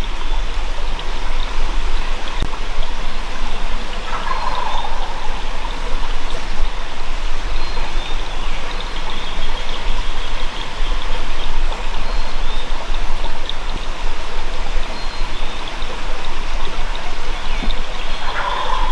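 Wild turkey gobbler gobbling in the distance, twice: about four seconds in and again near the end. A steady rushing noise runs underneath.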